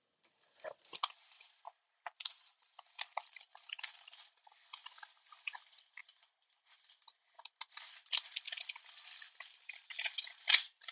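Handling noise: irregular crinkling, rustling and small clicks of packaging and metal parts as an all-metal CNC Z-axis assembly is picked up and unwrapped. The sounds come and go with brief pauses and are busiest near the end.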